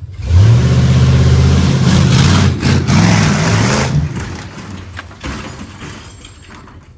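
A diesel truck's engine revving hard under load, with a loud rushing noise over it. After a few seconds the rushing drops away and the engine fades off.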